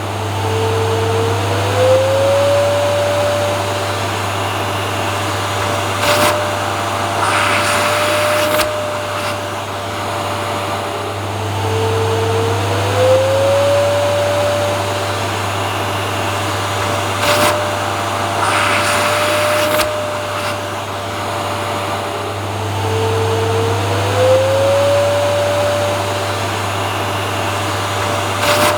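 Vacuum cleaner running steadily, with a low hum and a broad rushing noise. Its motor whine slides up in pitch three times, about every eleven seconds, with a few short noisy bursts in between.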